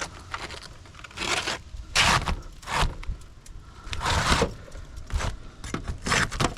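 Asphalt roofing shingle scraping and rustling as it is handled and slid into place, in several short rasps.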